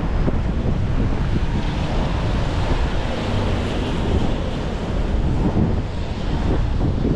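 Strong gusty wind buffeting the microphone in a heavy, fluttering rumble, over a steady hiss of rain on a city street.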